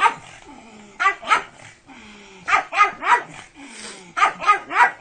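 A pug barking excitedly: about nine sharp barks in quick runs of two or three.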